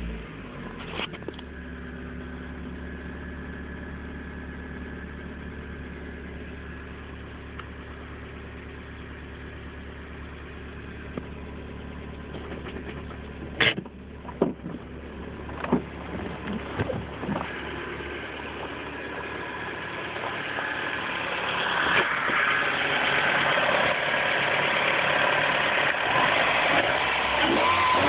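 Mazdaspeed Miata's turbocharged 1.8-litre four-cylinder idling steadily just after starting, heard first from inside the cabin. A few sharp clicks and knocks come about halfway through, and the engine grows louder in the last third, heard at the open engine bay.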